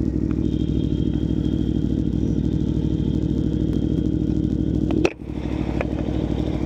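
Aprilia Tuono V4 1100 Factory's V4 engine running steadily on the road, heard from inside the rider's helmet. About five seconds in, one sharp click comes with a brief dip in the engine sound before it picks up again.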